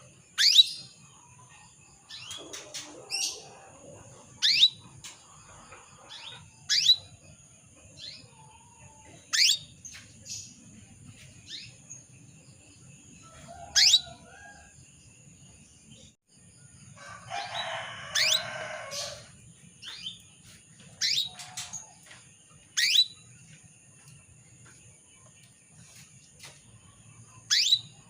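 Female canary in breeding condition giving short, sharp call notes, each a quick falling chirp, repeated every second or two. A longer scratchy chatter comes a little past halfway.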